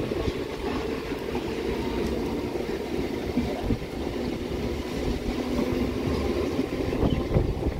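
A train running on the tracks: a steady low rumble of wheels on rails with a few faint knocks.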